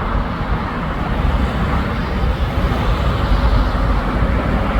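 Steady rumble of heavy expressway traffic, a dense wash of tyre and engine noise with no single vehicle standing out.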